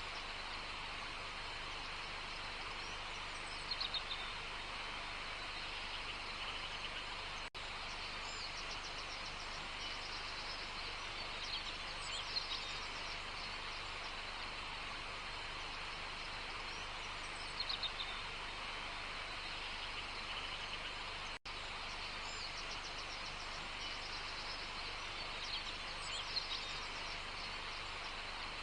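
Outdoor nature ambience: birds chirping in short bursts every several seconds over a steady background hiss. The sound cuts out for an instant twice.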